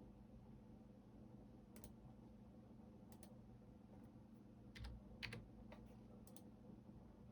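Computer keyboard keystrokes, sparse and irregular: a handful of key presses, some in quick pairs, the loudest two about five seconds in, over a faint steady hum.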